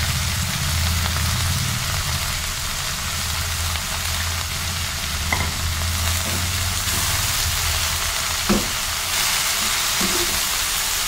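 Fresh fenugreek leaves sizzling in hot oil in a frying pan as they wilt, with a steady hiss. A low hum runs underneath for the first several seconds, and a few light knocks of the spoon come in the second half as the greens are stirred.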